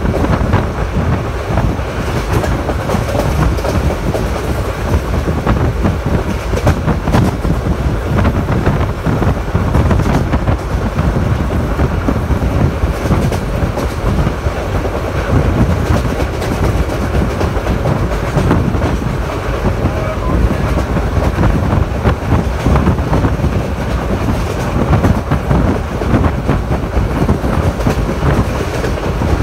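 Passenger train running at speed, heard from on board: a steady loud rumble of the coaches with many wheel clicks over the rail joints.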